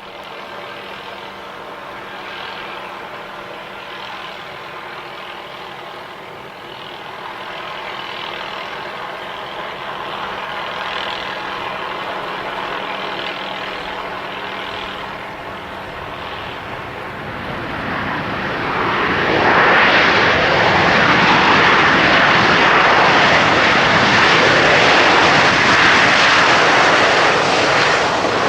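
Boeing 737-800's CFM56 turbofan engines on approach to land, a steady jet whine growing gradually louder. About two-thirds of the way in it swells into a much louder roar as the airliner comes close.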